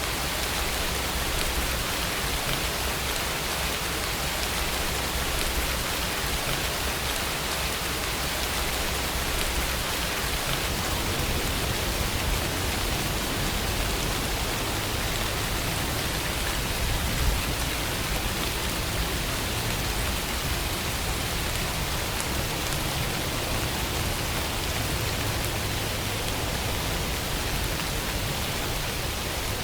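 Steady rainfall, an even hiss of rain on a surface with a faint low rumble underneath.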